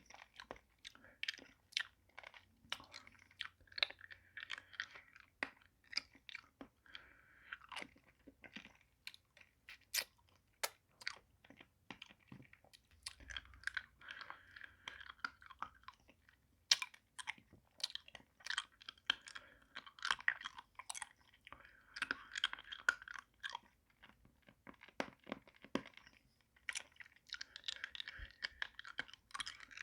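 Close-up mouth sounds of eating a pacifier-shaped candy lollipop: many sharp, irregular wet clicks and smacks with soft hissy stretches between them.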